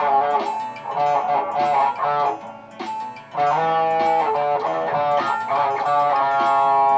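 Electric guitar playing looped, layered phrases of plucked notes. The playing thins out briefly about three seconds in, then comes back with held notes.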